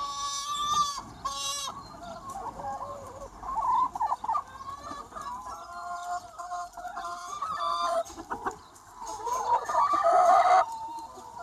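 A large free-range chicken flock clucking, with many short calls overlapping. A louder call rises about nine seconds in and cuts off suddenly.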